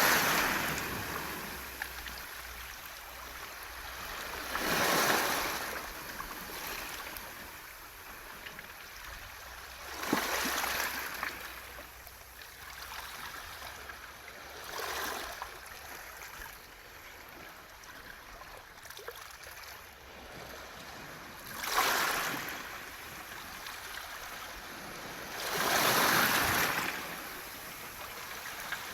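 Waves washing in and out over a beach of smooth round pebbles, with six surges that swell and fade every four to seven seconds over a steady rush of water, and a light clicking of stones throughout.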